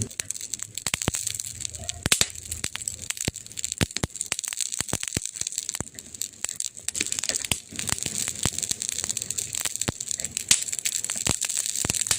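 Campfire burning, with dense, irregular crackles and pops over a steady hiss.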